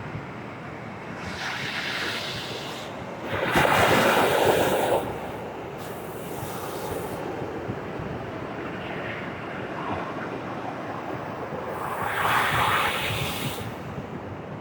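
Sea waves washing on the shore, with wind on the microphone: a steady rush that swells loudest about four seconds in and again near the end.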